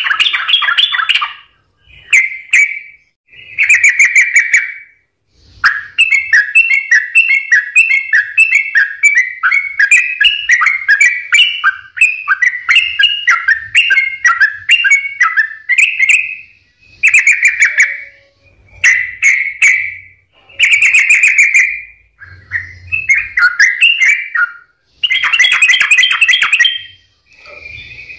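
Yellow-vented bulbul singing loud, bubbly phrases in vigorous full song. After a few short phrases with pauses, it breaks into a long unbroken run of rapid warbled notes lasting about ten seconds. Then come shorter phrases again.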